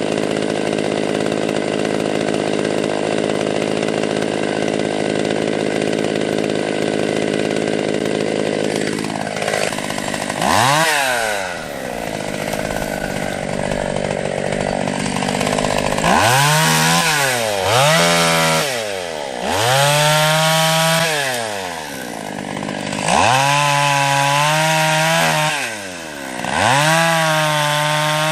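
A two-stroke chainsaw engine running at a steady speed, then revved up and dropping back again about five times in the second half.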